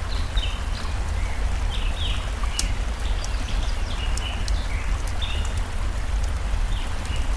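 Steady rush of a flowing stream with scattered sharp campfire crackles. Birds chirp throughout with short, repeated falling notes.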